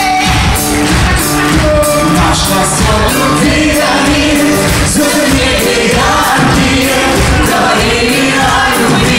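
A pop song performed live: singing over instrumental backing with a steady beat.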